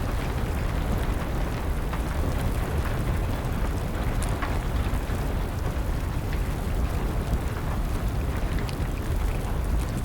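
Steady rain with a low rumble underneath, and scattered sharp crackles and pops of a burning wood fire.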